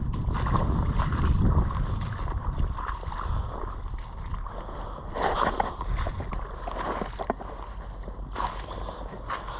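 Floodwater sloshing and splashing in irregular bursts, as of movement through standing water, over a low rumble in the first couple of seconds.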